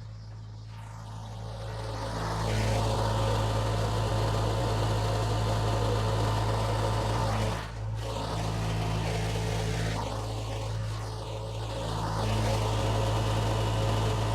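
Case 1840 skid steer's diesel engine running steadily, getting louder about two seconds in, with a brief dip a little past the middle.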